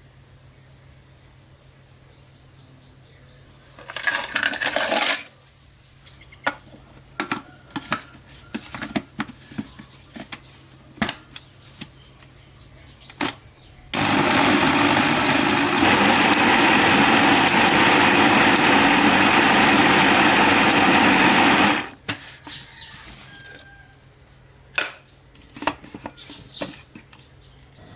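Electric blender running steadily for about eight seconds, blending fruit for a smoothie, then switched off abruptly. Before it come a short noisy burst and scattered knocks and clicks of handling.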